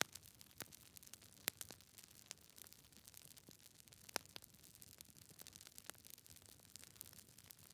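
Log fire crackling quietly: scattered sharp pops and snaps at an uneven pace over a soft hiss, with the loudest pops about a second and a half and about four seconds in.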